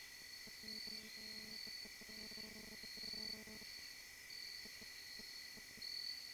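Night insects, crickets, chirring steadily: a high trill coming in phrases about half a second long over a continuous lower buzz. A faint low hum sits under it for the first few seconds.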